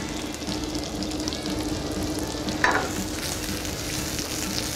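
Onions frying in hot oil in a pan, a steady sizzle, with one short sharper noise about two and a half seconds in.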